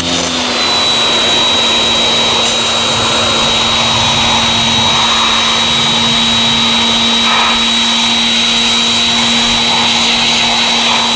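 Pressure washer running steadily: a constant motor hum and high whine over the hiss of the spray.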